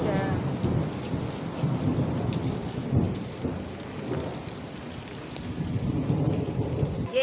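Heavy rain pouring down, with a low, uneven rumble that swells and eases.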